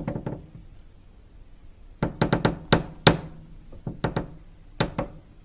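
Irregular sharp knocks and taps, in small clusters separated by quieter gaps.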